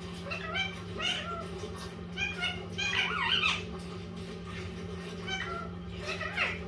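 Indian ringneck parrot vocalizing in a string of short, pitched chirps and squawks that slide up and down, with a longer wavering call about three seconds in.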